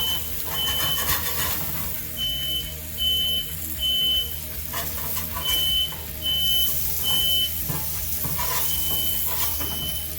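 Smoke alarm sounding in repeated sets of three short, high-pitched beeps with a pause between each set, set off by smoke from griddle cooking.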